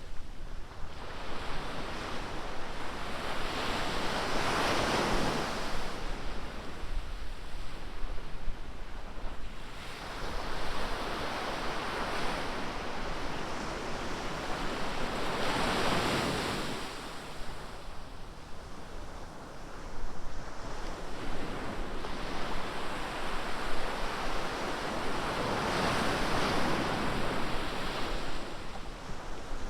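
Ocean surf breaking on a beach: three waves wash in about ten seconds apart, each swelling into a rushing hiss and then fading.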